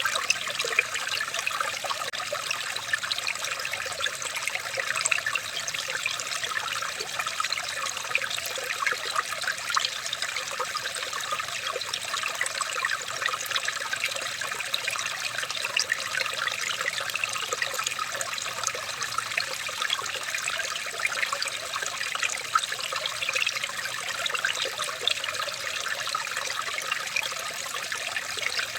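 Running water trickling and splashing steadily, a dense, even patter of small splashes with no pauses.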